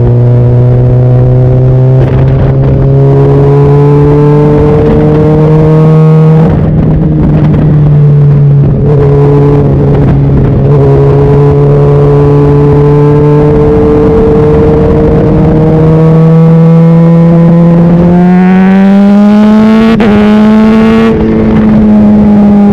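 Honda CBR600RR's inline-four engine running under way at a steady mid-range pitch that creeps slowly upward. About eighteen seconds in the revs climb more quickly, then ease back a little near the end.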